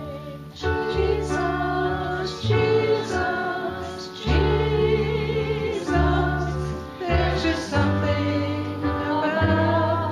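A hymn sung with instrumental accompaniment: held, wavering vocal notes over changing sustained bass notes.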